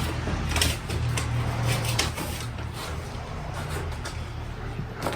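A few short clicks and knocks of objects being handled, most of them in the first three seconds, over a steady low hum.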